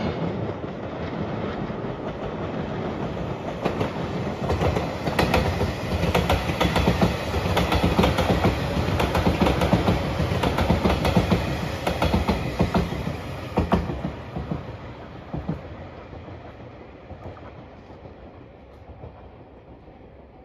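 JR Shikoku 8000 series electric limited express train passing close by, its wheels clattering rhythmically over the rail joints over a steady rumble. It builds at first, is loudest about 4 to 14 seconds in, then fades away.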